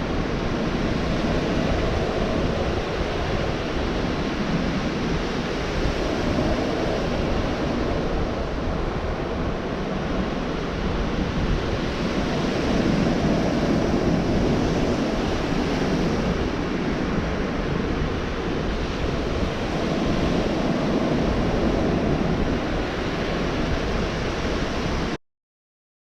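Ocean surf breaking on a beach: a steady wash of waves that swells and eases over several seconds, cutting off suddenly near the end.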